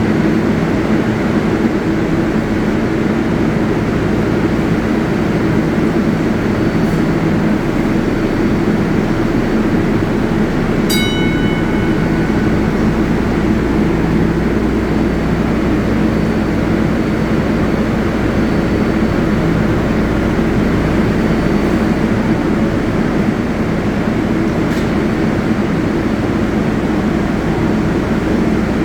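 New York City Subway 7 train running steadily with a continuous rumble and hum, and a brief high tone about eleven seconds in.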